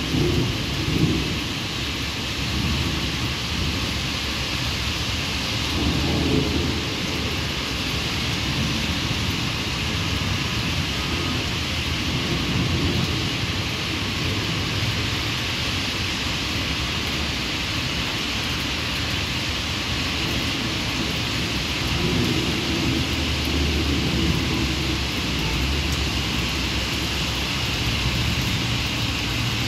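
Heavy rain pouring steadily, with low rumbles of thunder swelling a few times.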